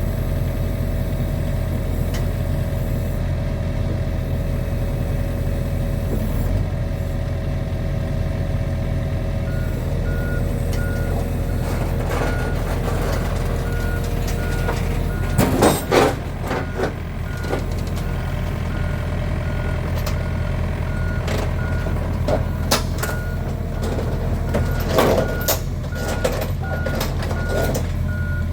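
John Deere 50P compact excavator's diesel engine running steadily, with its motion alarm beeping regularly from about a third of the way in. Loud metallic clanks come about halfway through and again near the end.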